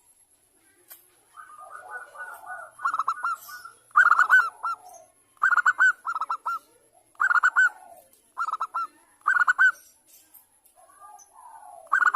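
Zebra dove (perkutut) cooing: groups of short, rapid, ringing notes repeated about a second apart, with a pause before one more group near the end. It is the call of a female calling a male, played to set other doves calling.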